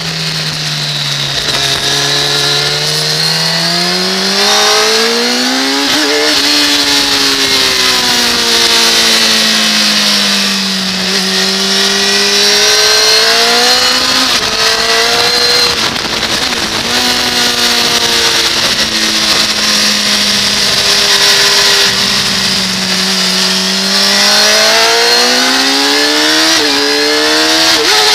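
2006 Kawasaki ZX-10R's inline-four engine at track speed, its pitch climbing hard under acceleration and sagging off-throttle into corners several times over. Sudden brief dips in pitch come at gear changes.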